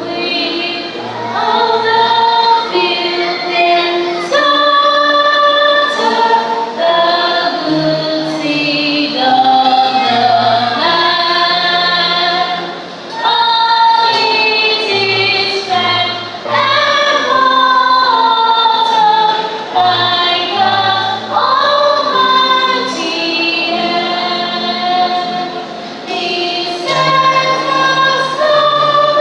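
A choir singing a gospel song with female voices, over an instrumental accompaniment with a bass line.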